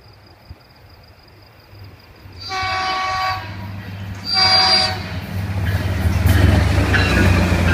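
Caltrain diesel commuter train sounding two horn blasts on its approach, the first nearly a second long and the second shorter. A low engine rumble and the rising rush of the train passing close by follow and stay loud to the end.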